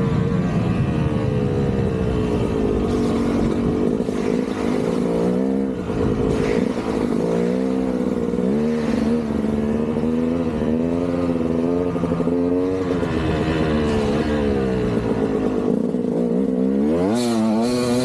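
KTM 200 single-cylinder two-stroke dirt bike engine under way, its pitch rising and falling over and over with the throttle, with a sharp rev near the end.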